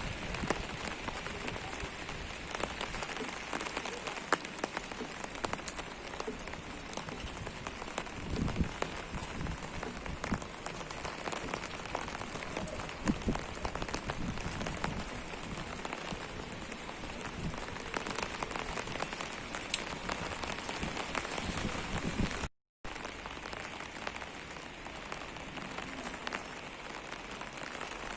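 Rain falling: a steady hiss of rain with many separate drops tapping on surfaces, broken by a brief silent gap about two-thirds of the way through.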